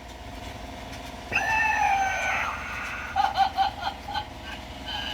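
Small electric motor of a Tomy Plarail toy bullet train whirring steadily. About a second in, a loud high-pitched call with a slightly falling pitch joins it, and short chirping sounds follow in the middle.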